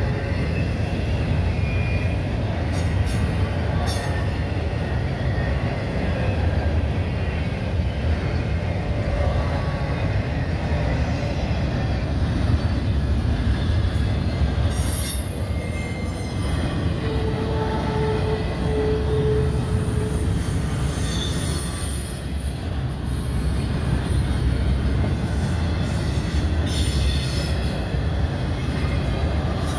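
Double-stack intermodal freight train's well cars rolling past at close range: a steady low rumble of steel wheels on rail. Now and then a brief hiss rises above it, and a short held squealing tone sounds a little past halfway.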